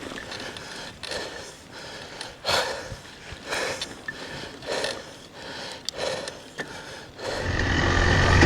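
A person breathing hard in rhythmic puffs, about one a second. Near the end a loud engine starts running steadily close by.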